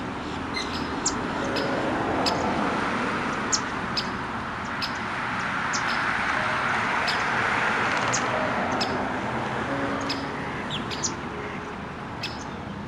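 Small birds chirping: short, sharp high notes, several a second, over a steady background rush that swells in the middle.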